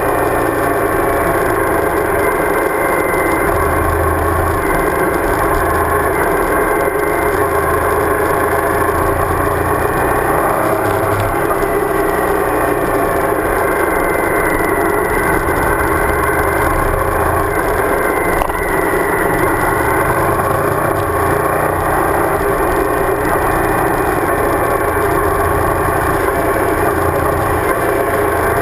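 Suzuki DL1000 V-Strom's V-twin engine running steadily under way, mixed with steady wind rush on the microphone.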